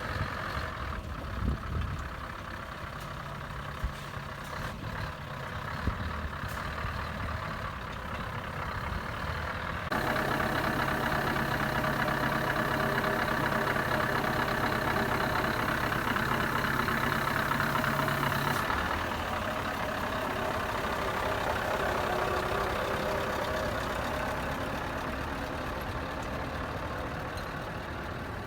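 Scania R 500 truck's diesel engine idling steadily, with a few sharp knocks in the first several seconds. About ten seconds in it suddenly gets louder, then falls back somewhat after about eighteen seconds.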